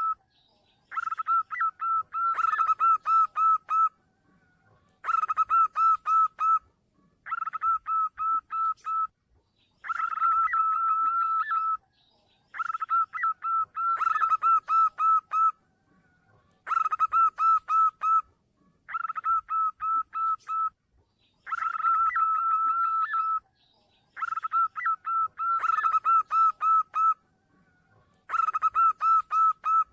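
Zebra dove (perkutut) cooing from a lure recording: phrases of rapid staccato coos, each about two seconds long, repeated about eleven times with short pauses between.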